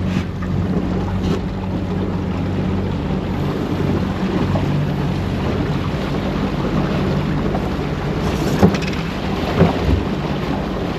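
Strong wind buffeting the microphone on a small fishing boat, with water noise and a steady low hum underneath. A few sharp knocks come near the end.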